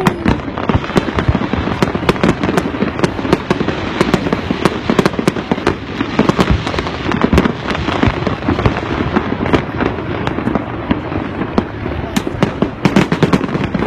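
Fireworks display going off in a dense, continuous barrage of sharp bangs and crackling, many reports a second.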